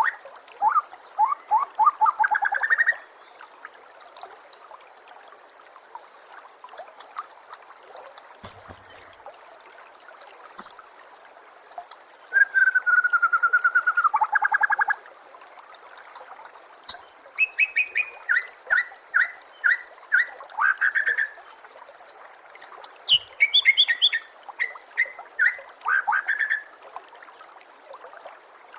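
White-rumped shama singing in separate phrases of clear whistles and rapid repeated notes, with pauses of a few seconds between, over a steady trickle of running water.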